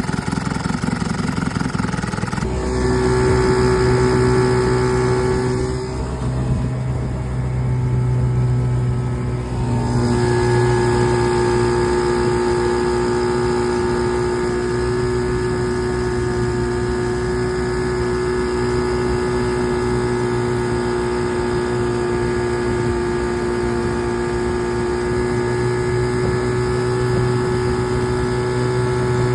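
Small marine engine running, its speed shifting a few times in the first ten seconds and then holding steady with an even whine.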